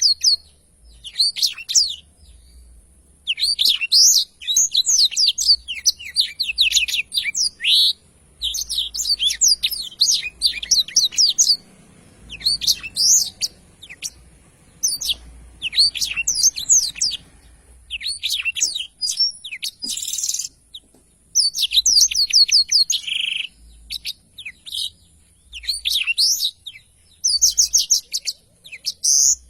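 Blackthroat (yellow-rumped seedeater) singing its long rolling song: fast runs of high chirping and trilling notes in phrases of one to four seconds, with short pauses between them.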